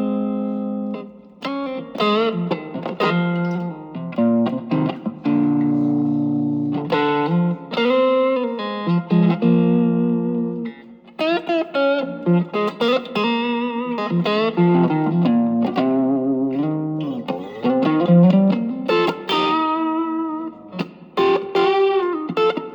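Electric guitar played through an Ibanez TS808 Tube Screamer overdrive pedal on a boost setting: a lightly driven tone playing single-note lead phrases and chords, with string bends and vibrato and short pauses between phrases.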